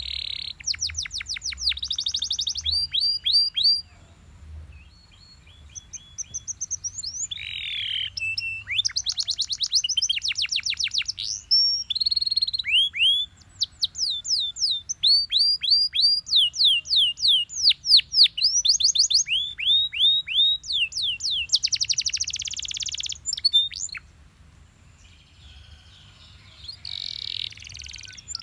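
Canary singing: fast trills of repeated high, downward-sweeping notes strung together in changing phrases, with short pauses about four seconds in and again near the end.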